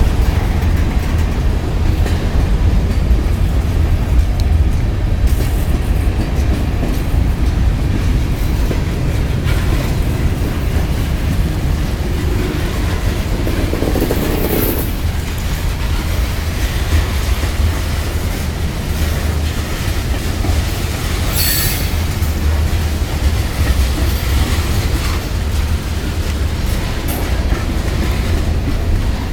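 Long freight train rolling slowly past, its cars running over the rails with a steady low rumble.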